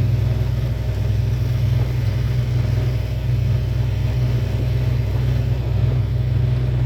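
Steady low rumble, unchanging throughout.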